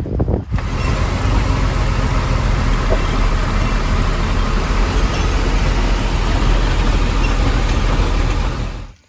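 Steady low rumble and road noise of a moving vehicle, starting abruptly about half a second in and cutting off suddenly near the end.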